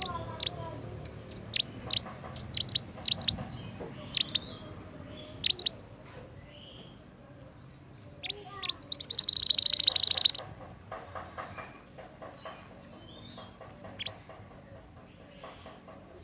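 Minivet (burung mantenan) calling: short, high, sharp notes in quick clusters for the first several seconds, then a loud, fast trill of rapidly repeated notes lasting about a second and a half near the middle, followed by quieter chattering.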